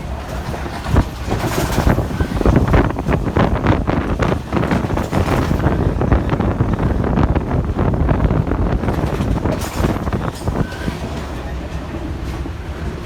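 Train carriage running on the track, its wheels clattering over the rails in a rapid run of knocks and rattles. It grows louder after about a second and eases off near the end.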